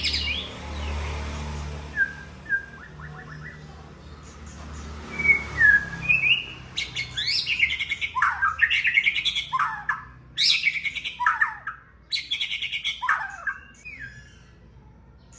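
White-rumped shama (murai batu) singing: a few short whistled notes at first over a low hum, then from about six seconds in a long, rapid run of loud, varied phrases with sharp falling sweeps, dying away near the end.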